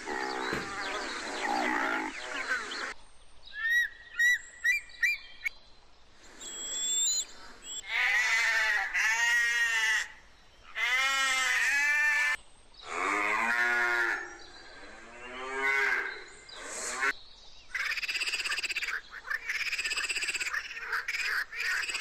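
A string of separate animal calls, mostly long wavering bleats of goats one after another. A run of short high chirps comes about four seconds in, and higher squeaky calls near the end.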